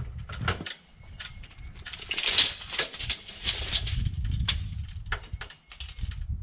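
A string of sharp clicks, knocks and light metallic rattles from handling tools and building materials, busiest from about two seconds in until past four seconds. Wind buffets the microphone as a low rumble underneath.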